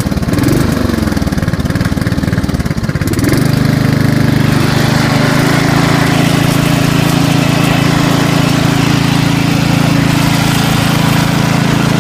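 LT4000 lawn tractor engine just after starting. Its speed rises and falls for the first few seconds, then it settles into a steady run.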